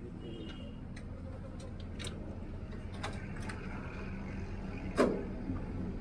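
Motorcycle engine idling steadily at low revs, with scattered light clicks and one short knock about five seconds in.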